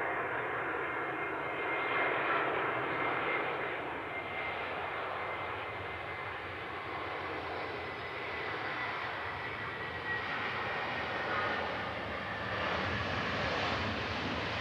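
Engine noise of an Airbus A321-231 airliner, whose IAE V2500 turbofans give a steady roar with a faint high whine that slowly drops in pitch. A brighter hiss grows near the end.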